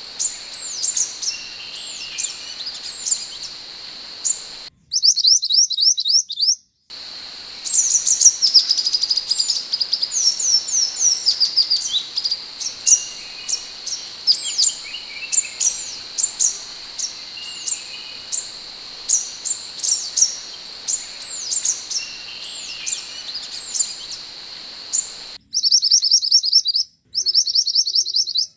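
Minivet (sepah hutan) song: a busy stream of short, high, sharply down-slurred whistled notes, some in quick runs, over a steady high insect-like whine. Twice, early on and near the end, the background drops out and a rapid trill of repeated high notes is spliced in.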